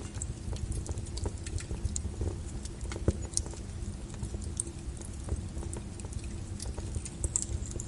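Wood fire burning in a fireplace, crackling with frequent small irregular pops over a low, steady rumble of flame; one sharper snap about three seconds in.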